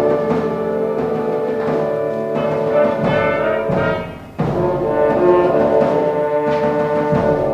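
A concert wind band playing, with held brass chords over timpani. Just after four seconds the sound dips briefly, then the full band comes back in with a loud accented chord and a drum stroke.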